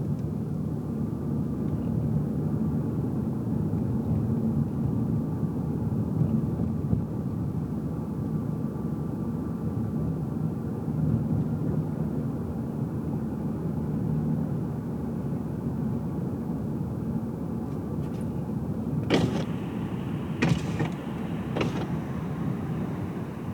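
Car cabin sound while driving: a steady low engine and road rumble. Near the end, three sharp clicks or knocks a second or so apart stand out above it.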